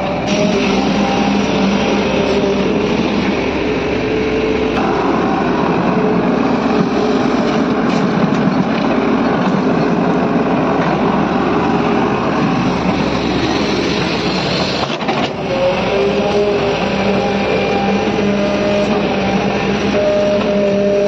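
Diesel engine of heavy road-construction machinery running steadily under load, with a brief dip about fifteen seconds in.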